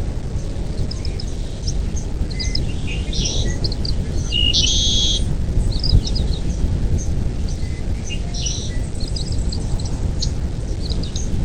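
Birds calling: short high-pitched chirps and buzzy half-second calls repeated every second or two, over a steady low rumble.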